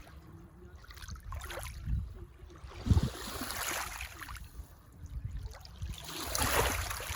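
Small lake waves washing against the shore, rising and falling in swells, with wind gusting on the microphone.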